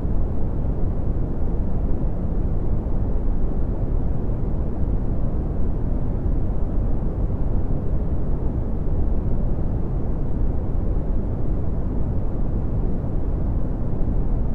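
Synthetic red (Brownian) noise: a steady, deep rumbling hiss, strongest in the bass and fading toward the treble, with no change in level.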